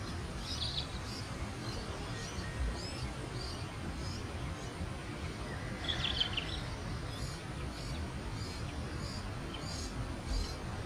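A small bird chirping: short, high notes repeated about twice a second, with a louder cluster of chirps about six seconds in, over a steady low rumble of background noise.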